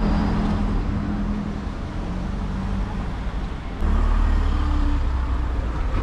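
Street traffic: a motor vehicle's engine running with a low, steady rumble that gets louder about four seconds in.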